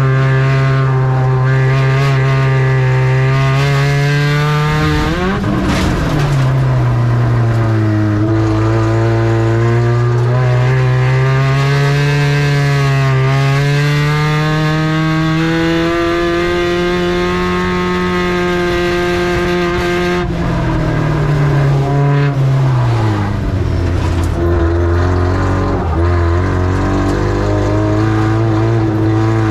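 Spec Ranger race truck's engine running hard through a race, with the revs dipping sharply about five seconds in and again about two-thirds of the way through, then climbing back up.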